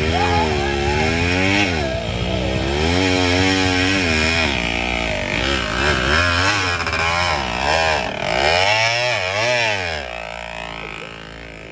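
Motorcycle engine revving up and falling back again and again as it is ridden, the rises and falls coming quicker near the middle; it drops away about ten seconds in.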